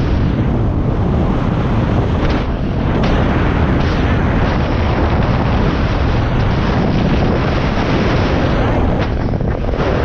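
Heavy wind buffeting on the microphone while riding, with a dirt bike's engine running underneath.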